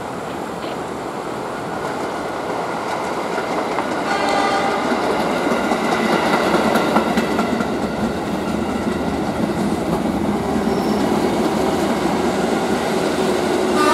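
The coaches of a passenger train rolling past on the rails, wheels clattering over the track and turnout. The rolling noise grows louder about four seconds in, and a brief higher-pitched tone joins it there.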